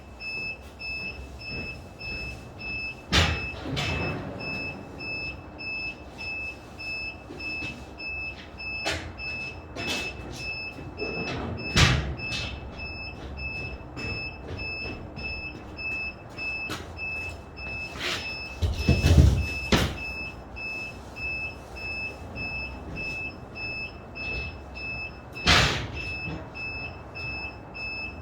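Construction-site work noise: several heavy knocks and thuds at irregular intervals over a steady, rapidly pulsing high electronic beep.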